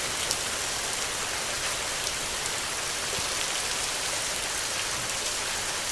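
Steady rain falling, an even hiss strongest in the highs, with a few separate drops ticking out of it.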